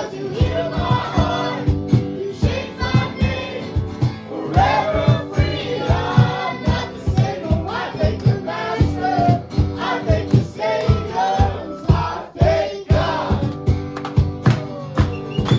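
Live worship music: a group of voices singing together over a band with a steady beat.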